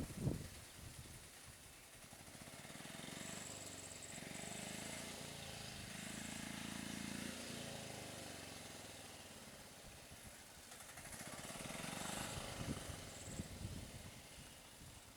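A small vehicle engine running as it approaches and passes, growing louder over several seconds and then fading. A second rise in engine noise comes near the end. A few brief high-pitched chirps are heard over it.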